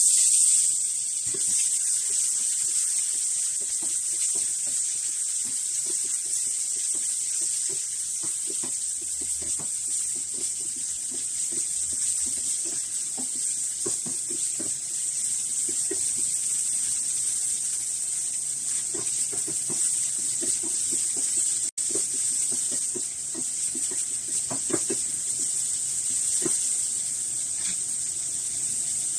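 A steady high hiss, with faint soft ticks and rustles beneath it. It cuts out for an instant about three-quarters of the way through.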